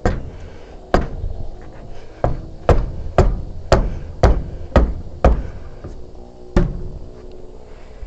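Hand hammer striking a wooden frame, about ten blows, coming roughly two a second in the middle with a pause before the last one.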